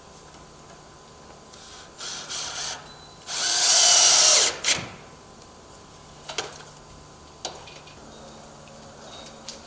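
Power drill driving a screw into the door frame: a couple of short trigger blips, then one run of about a second and a half that winds down as it stops, followed by a few light clicks.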